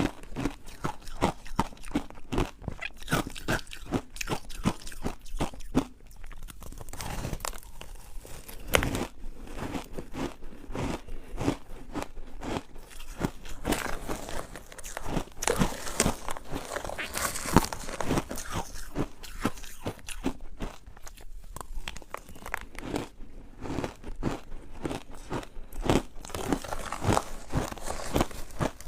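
Close-up crunching of ice being bitten and chewed: a dense, irregular run of sharp cracks and crackles.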